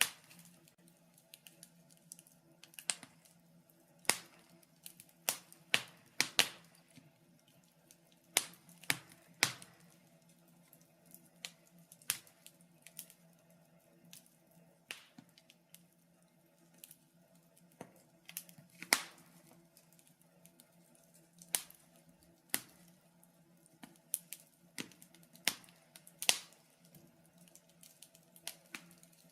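Wood fire crackling in a fireplace: irregular sharp pops and snaps at uneven intervals over a faint steady low hum.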